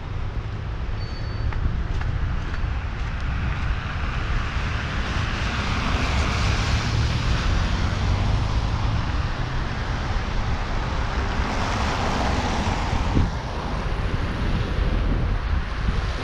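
Wind buffeting the microphone with a low rumble, over a steady rushing noise that swells up and fades twice.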